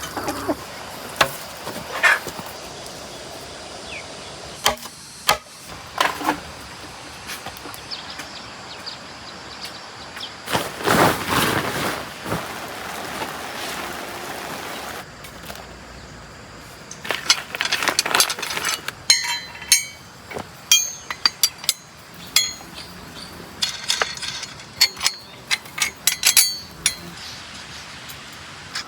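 Metal hand tools clinking and knocking on metal parts in scattered short strikes, thickest in the second half, over a steady hiss.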